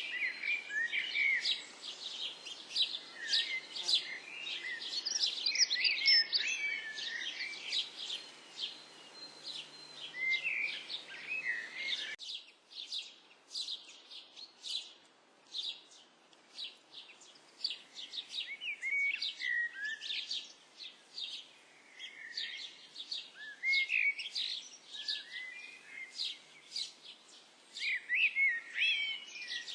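Birds calling: a busy stream of short, high chirps and piping notes with quick rising and falling glides, mixed with rapid ticking notes. The background changes abruptly about twelve seconds in.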